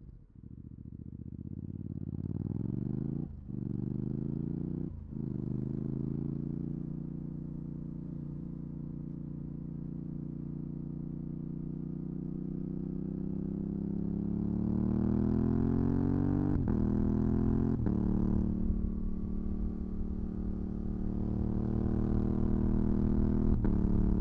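Yamaha R7's 689 cc parallel-twin engine through a full MIVV GP Pro exhaust with dB-killer, pulling under acceleration with its pitch climbing. The sound breaks briefly about three and five seconds in and twice more later, then holds at a steady high pitch.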